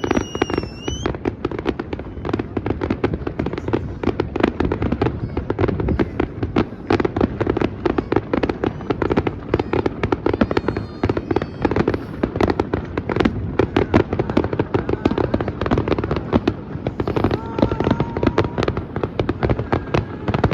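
Fireworks going off continuously: dense, rapid bangs and crackling, with a few rising whistles of rockets.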